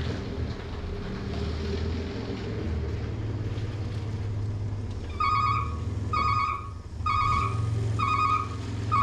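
Plow truck's engine running steadily, joined about five seconds in by a repeating electronic warning beep from the truck, about one a second.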